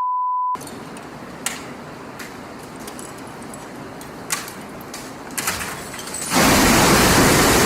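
A steady high censor beep cuts off about half a second in. Then comes a quieter background with a few sharp clicks and knocks, until a loud, steady rushing noise sets in about six seconds in.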